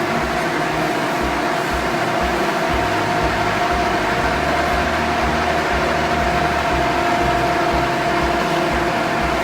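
A machine running steadily, with a constant whine over a hum and an uneven low thudding.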